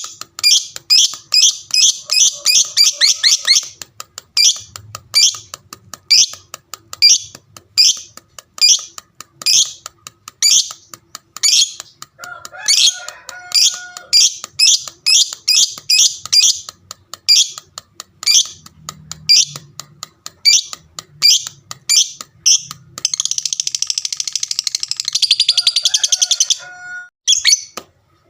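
Fighter lovebird singing its long 'ngekek' chatter: a long run of sharp, high chirps a few per second, packing tighter at times and breaking into a fast unbroken trill near the end.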